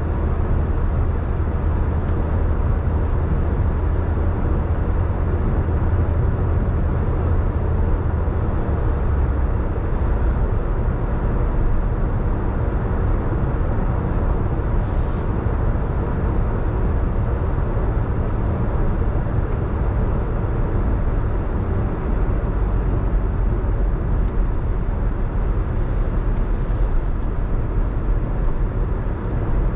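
Steady road noise of a car driving on wet roads: a constant low rumble with tyre hiss.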